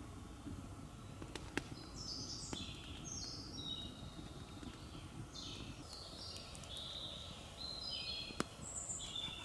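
A songbird singing: short phrases of quick high notes stepping down in pitch, repeated several times, over a steady low rumble. Two sharp clicks, one about a second and a half in and a louder one near the end.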